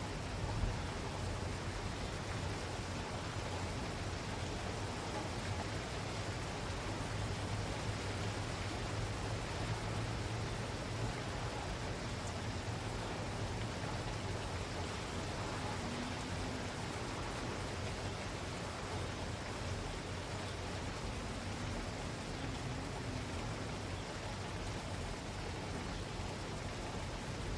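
Steady rain falling, an even continuous hiss with a low rumble underneath.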